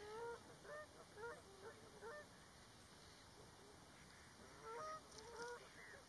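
Birds calling faintly: a run of short calls, about two a second, for the first two seconds, then a pause and a few more about five seconds in.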